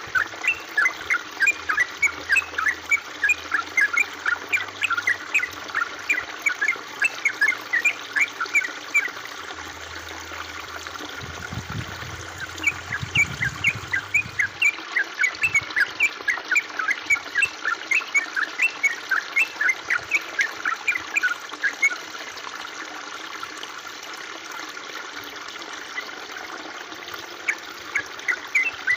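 A bird chirping in fast runs of short, sharp notes, about four a second, that stop twice and start again. Under it runs a steady trickle of running water.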